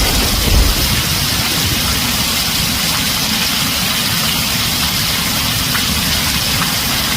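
Heavy rain drumming steadily on a tin roof, with a low rumble of thunder fading out in the first second.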